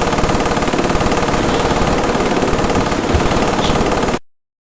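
Loud, rapid rattling noise that cuts off abruptly about four seconds in.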